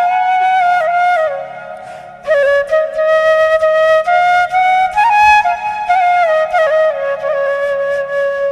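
Background music: a flute playing a slow, ornamented melody with bends between notes over a soft, steady accompaniment, briefly fading around two seconds in.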